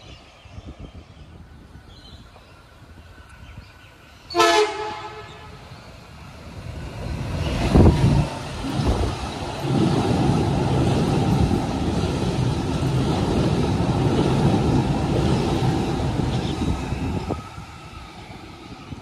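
A train horn sounds one short blast about four seconds in. Then a train approaches and passes through the station, its rolling rumble building up and holding for about eight seconds before dropping away near the end.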